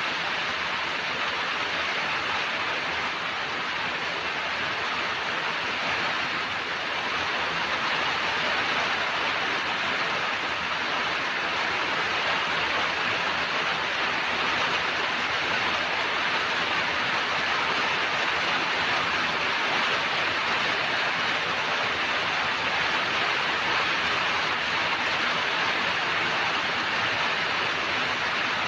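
Steady rain, an even hiss without separate drops or other events.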